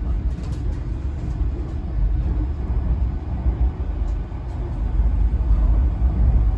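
A train running: a steady low rumble with faint scattered clicks.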